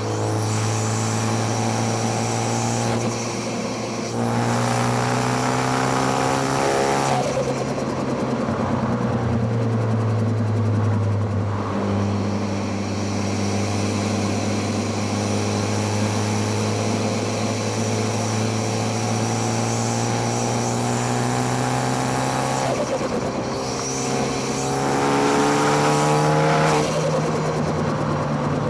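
2013 Ford Focus ST's turbocharged four-cylinder engine under hard driving, heard through the intake and exhaust. The revs climb and fall, with several sharp breaks as it changes gear.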